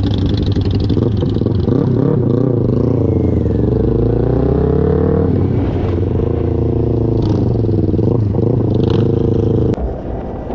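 Motorcycle engine running under way, its pitch rising and falling as it revs up and eases off through the gears. It cuts off abruptly about a second before the end, leaving a quieter background.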